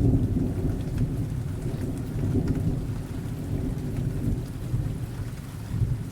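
Thunder rumbling low and slowly dying away over steady rain, with scattered raindrop ticks.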